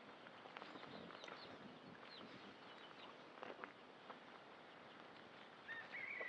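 Faint outdoor ambience with scattered small bird chirps and light ticks. Near the end a long, steady high call begins.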